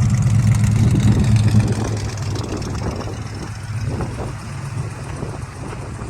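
Vehicle engine idling steadily, its low hum dropping away about two seconds in, leaving a quieter rough rumble.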